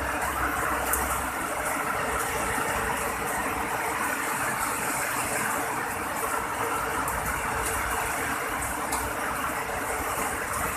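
Very heavy rain pouring down steadily.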